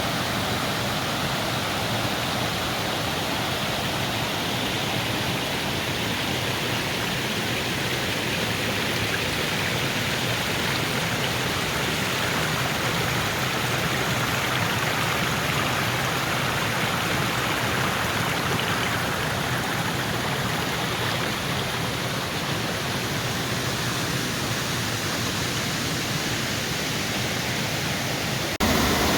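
Steady rush of falling water from a forest waterfall, with no clear rhythm. Shortly before the end it changes abruptly to a louder rush.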